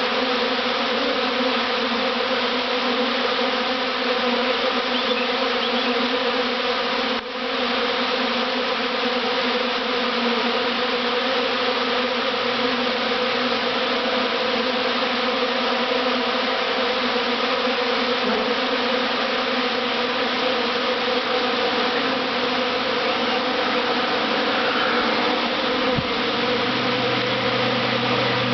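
Dense, steady buzzing of a honeybee swarm heard close up, with many wingbeats blending into one layered hum. There is a brief dip about seven seconds in.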